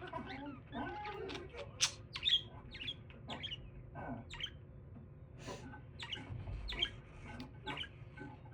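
Pet budgie chattering: short, sharp chirps at irregular intervals, the loudest about two seconds in.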